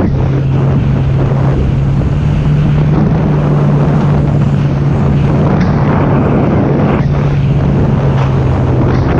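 Sea-Doo jet ski running at steady speed on the open sea, its engine holding a constant low drone, with heavy wind noise buffeting the microphone.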